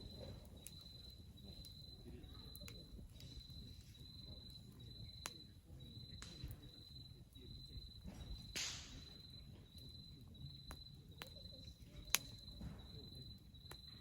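Wood fire crackling, with a few sharp pops (the loudest about twelve seconds in) and a brief hiss about eight seconds in, over an insect chirping steadily at nearly two chirps a second.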